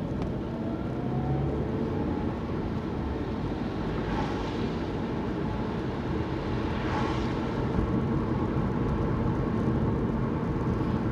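Car cabin noise while driving: a steady low rumble of engine and tyres, with the engine note rising slightly in the first second or so. Two brief swells of hiss come through about four and seven seconds in.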